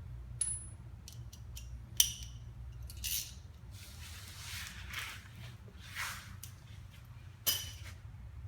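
A wrench working the 12 mm bolt of a car's ABS sensor: several sharp metal clicks and clinks, the loudest about two seconds in and near the end, with some soft scraping between them.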